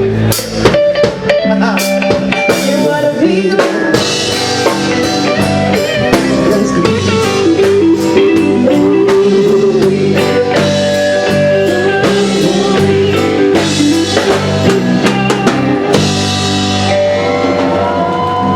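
Live band music: a drum kit and guitar playing, with a voice singing over them.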